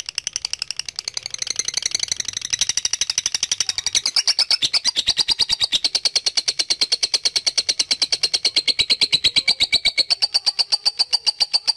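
Lovebird 'ngekek': a long, unbroken, rapid string of sharp high chirps at an even pace, getting louder about four seconds in.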